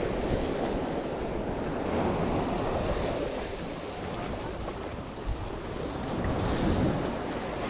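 Sea surf washing onto the beach, rising and falling in swells, with some wind on the microphone.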